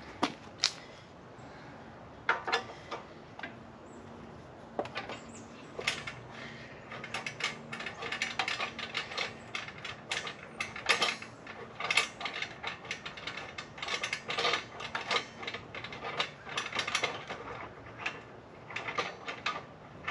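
Irregular sharp clicks and crackles, a few at first and then a dense, uneven run from about six seconds in.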